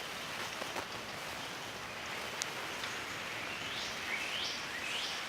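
Steady hiss of wet surroundings just after a rainstorm, water still dripping and running, with a few short bird chirps repeating about every half second near the end.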